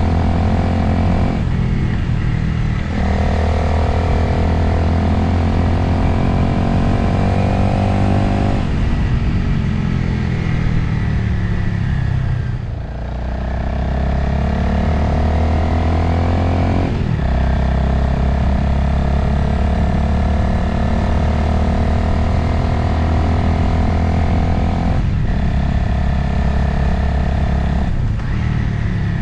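Motorcycle engine running under load while riding, the pitch dropping at gear changes about two seconds in and again later. Midway the engine note falls as the bike slows, then climbs again as it accelerates.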